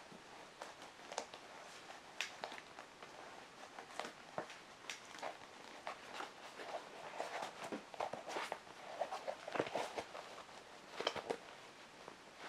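A mesh trail running shoe with a foam midsole and rubber sole being bent, twisted and squeezed by hand: irregular short rustles and scuffs of handling.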